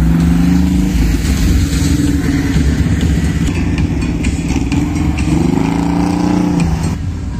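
Classic Volkswagen Beetle's air-cooled flat-four engine running as the car drives slowly past, with other vehicle engines in the caravan. About five seconds in the engine revs, its pitch rising and then falling.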